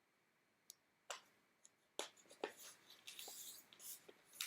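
Sheet of paper being handled and folded into a triangle: after a near-silent second, a few light ticks and crinkles of paper, then soft rustling as it is pressed and creased.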